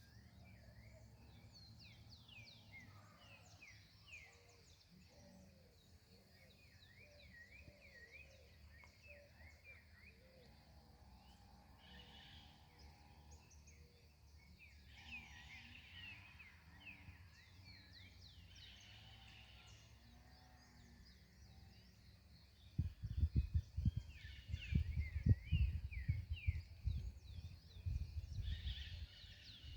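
Several birds singing and chirping at once, many short quick calls overlapping. In the last several seconds, loud low rumbling bursts come over the birdsong.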